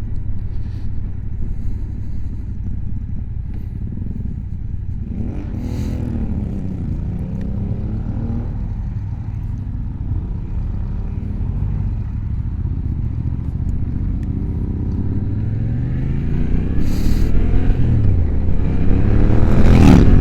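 Motorcycle engine from on board the bike, its pitch rising and falling as it pulls away through the gears, then climbing again and growing louder near the end as it accelerates harder. Wind rumble on the helmet microphone runs underneath.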